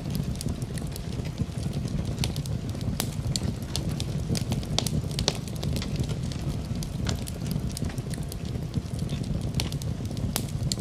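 Wood fire in a fireplace crackling, with irregular sharp pops and snaps several times a second over a steady low rumble of the burning fire.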